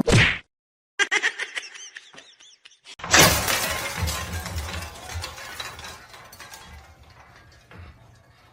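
A sudden loud crash about three seconds in, with clattering that dies away over the next few seconds.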